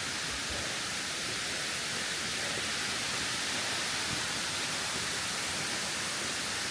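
Steady rush of water from the Kuang Si waterfall's cascades, an even hiss with no breaks.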